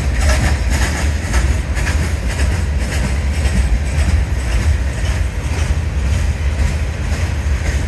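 Covered hopper cars of a CSX freight train rolling past at close range: a steady low rumble, with the steel wheels clicking repeatedly on the rails.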